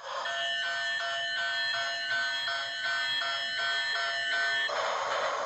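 Railway level-crossing warning bell ringing in a steady repeating pattern, about three strokes a second. About four and a half seconds in it stops and a steady rushing noise of a train takes over.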